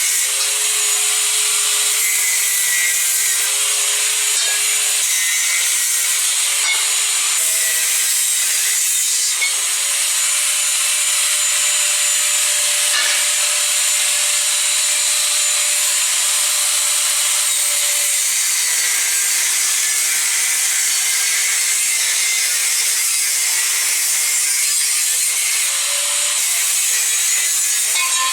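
Electric power tool running steadily under load while working steel, a loud high rasping hiss over a motor whine that shifts in pitch, dropping noticeably about 18 seconds in.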